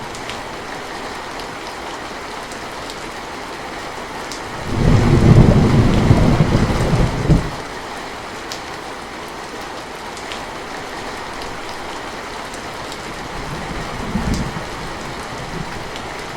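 Steady rain falling, with a loud low rumble of thunder starting about five seconds in and lasting a couple of seconds, and a fainter, shorter rumble near the end.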